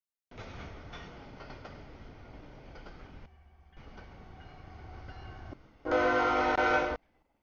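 CSX freight train rolling through a grade crossing, a steady rumble of wheels on rail. About six seconds in, a locomotive horn sounds one loud chord for about a second, then cuts off abruptly.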